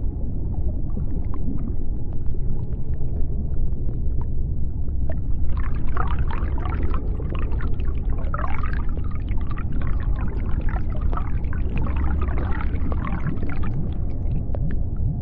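Underwater sea ambience: a steady deep rumble with scattered clicks. From about six seconds in until near the end, a dense run of wavering, warbling calls rises over it.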